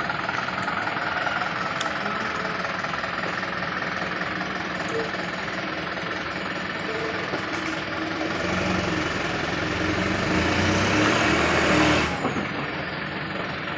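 Mitsubishi Fuso Canter dump truck's diesel engine running steadily. From about eight seconds in, a louder rushing noise builds up, then stops abruptly near the end.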